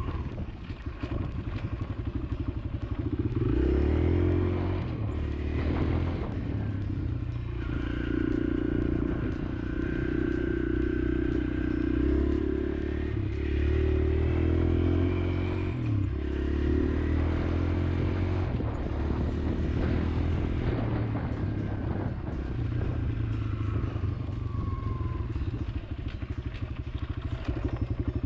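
Kawasaki KLX140L pit bike's small single-cylinder four-stroke engine running, its revs rising and dropping repeatedly as it is ridden.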